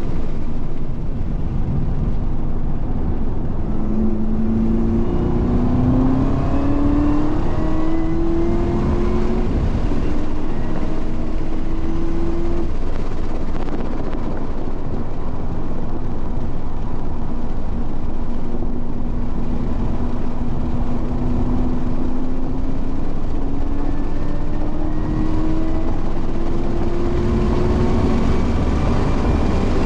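Onboard sound of a car driven hard on a race track: the engine note climbs slowly through long pulls in the gears, over constant heavy wind and road rumble.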